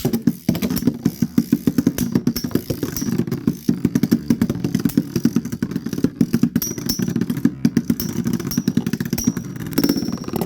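Two Metal Fight Beyblade spinning tops, Storm Capricorne M145Q and Rock Orso D125B, spinning and clashing in a plastic stadium: a fast, continuous clatter of metal wheels striking each other and the stadium walls, over a faint high whine. It cuts off suddenly near the end.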